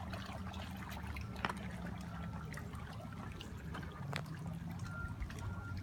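Water trickling and lapping, over a steady low hum, with a few light clicks and short high-pitched chirps near the end.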